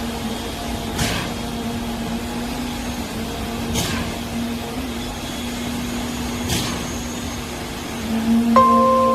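Concrete pump truck running with a steady engine hum. A sharp knock repeats about every three seconds, in the rhythm of the pump's strokes changing over. Music comes in near the end.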